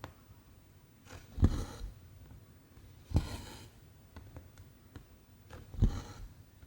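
Cross-stitch needle pushed through 14-count fabric, each stroke a small pop followed by a short swish of cotton thread drawn through, three times a couple of seconds apart, with faint ticks between.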